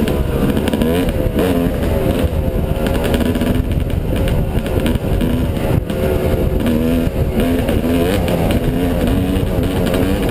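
Yamaha 250 dirt bike engine revving on the ride, its pitch climbing and dropping back again and again, over a heavy low rumble of wind buffeting the action-camera microphone.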